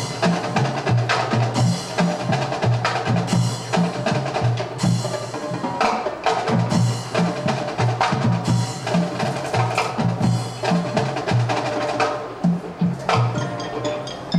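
Elementary school marching band playing, with many rhythmic drum and percussion strokes over low sustained notes; the music starts sharply just before and keeps up steadily.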